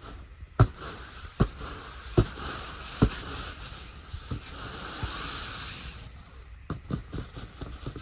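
Steady hiss of rain and wet snow on a tent, with sharp knocks, about one a second for the first three seconds and then fainter and more scattered.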